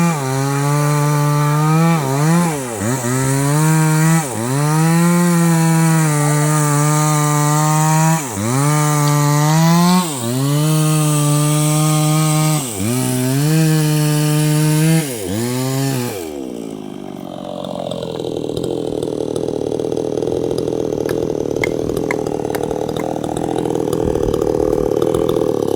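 Chainsaw running at full throttle while cutting a tree, its engine note dipping briefly and recovering about five times. About two-thirds of the way in it drops off throttle and falls to a rough idle.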